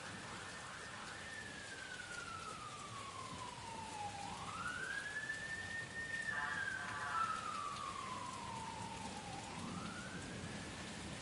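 A siren wailing slowly up and down in pitch, two full falls and rises, loudest about midway, over steady rain.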